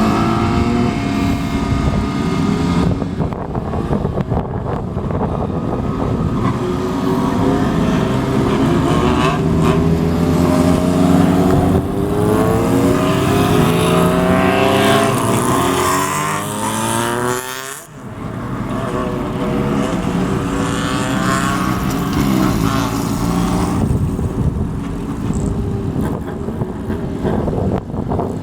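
Motorcycle exhausts as bikes ride off one after another, engines revving and climbing in pitch as each accelerates away, with a brief sudden drop in level about two-thirds of the way through.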